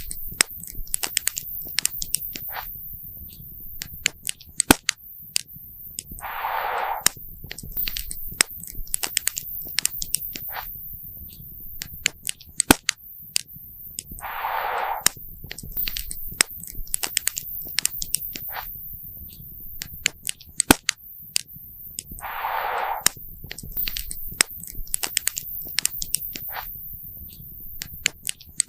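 Wood campfire crackling, with many sharp pops at irregular intervals over a steady low rumble of the burning fire. A brief rush of noise comes back about every eight seconds.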